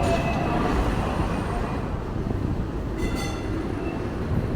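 Steady low rumble of a vehicle in motion, with thin whining tones above it and a brief higher ringing sound about three seconds in.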